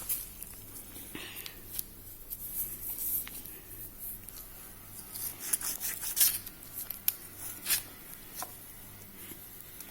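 Scattered light clicks, taps and scraping as a car's front strut-mount bearing, just removed from its housing, is handled and examined by hand.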